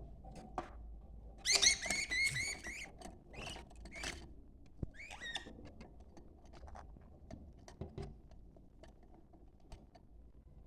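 Budgerigars chattering: a burst of fast warbling calls about one and a half seconds in, shorter chirps around four and five seconds, and soft clicks and ticks in between.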